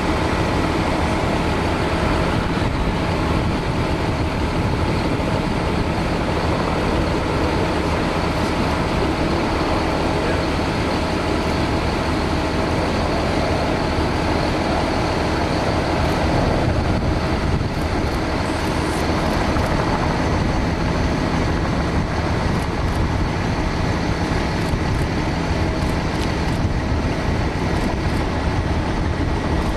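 Boeing 787 jet engines running, a loud, steady noise with a constant low hum.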